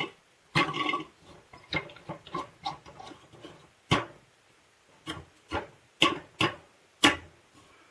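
Irregular clicks and knocks of a 3M H180 tape gun's plastic and metal parts being handled and taken apart, with a short scraping noise in the first second.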